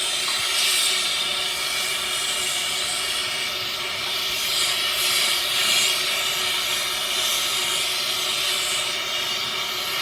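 Jeweler's torch flame hissing steadily as it melts gold in a crucible.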